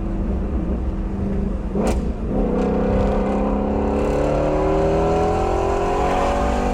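Ford Shelby GT350R's 5.2-litre flat-plane-crank V8 on its stock exhaust, running at steady revs, with a sharp exhaust pop about two seconds in. The engine note then climbs slowly and steadily as the car accelerates.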